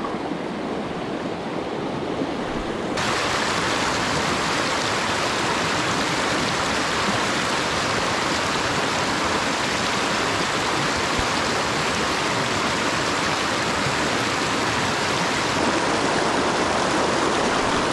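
Small mountain creek rushing and burbling over rocks, a steady wash of water noise that gets abruptly louder about three seconds in.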